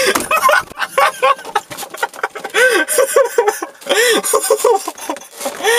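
People laughing hard in loud, high-pitched bursts of quick rising-and-falling cackles.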